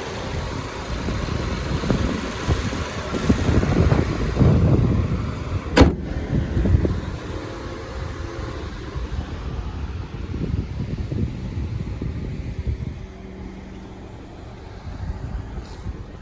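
2018 Honda Accord's 2.0-litre four-cylinder engine idling under the open hood, a low uneven rumble. One sharp knock comes about six seconds in, and the sound is somewhat quieter after it.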